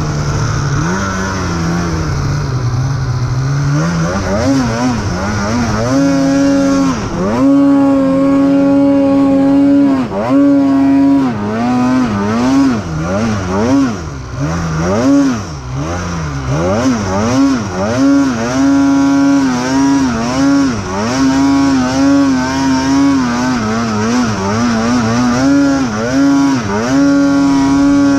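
Polaris 9R two-stroke snowmobile engine, its throttle worked on and off over and over. The revs rise about four seconds in, then swing between a steady high note and short dips many times.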